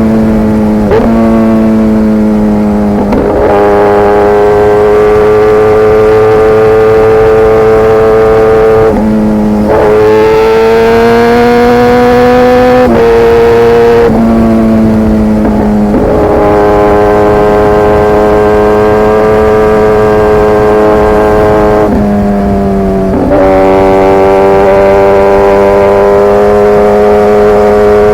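Kawasaki ZX-10R's inline-four engine through an SC-Project CRT carbon exhaust, running at a steady cruising pitch. The engine note steps in pitch several times through the stretch as the rider shifts and rolls the throttle.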